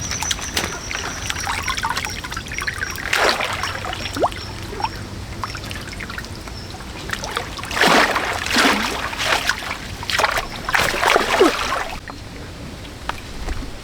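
Water splashing and trickling, in irregular bursts, the loudest about eight seconds in and again near eleven seconds.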